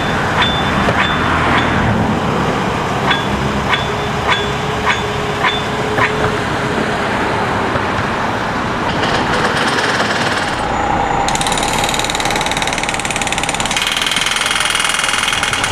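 Metal hammer blows ringing on steel, less than a second apart, in two short runs during railroad tie and rail replacement, over the steady running of work equipment. From about nine seconds in, a louder machine noise with a high hiss takes over.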